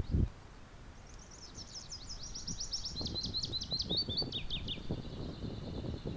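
Tree pipit singing: a rapid run of repeated high notes that step lower, ending in a drawn-out thin note. Faint low knocks sound underneath.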